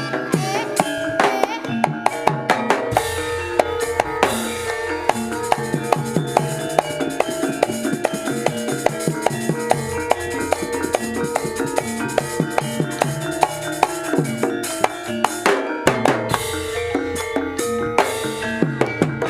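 Jaranan Senterewe ensemble music: dense, fast drumming over sustained pitched tones, amplified through a sound system.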